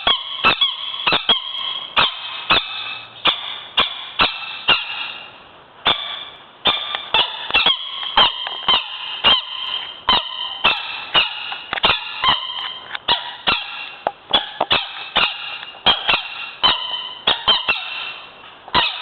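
Many sun conures screeching: loud, harsh, piercing calls, several a second, with a brief lull about five seconds in.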